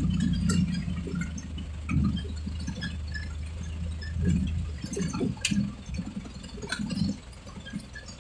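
A heavy diesel engine running low and steady, which stops about five seconds in, leaving scattered clicks and knocks.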